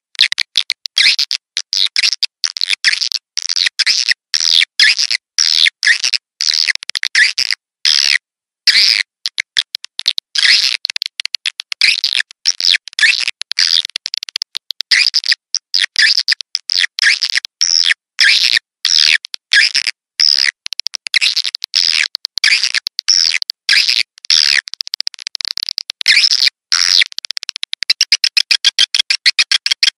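Swiftlet lure call: edible-nest swiftlets' high twittering chirps in a dense, fast stream broken by brief pauses. About two seconds before the end it changes to a fast, even train of pulses.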